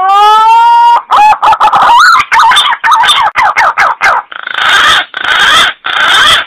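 Green pigeon (punai) call played as a hunting lure: a rising, held whistled note, then a quick run of wavering notes, ending in three harsh, rasping notes.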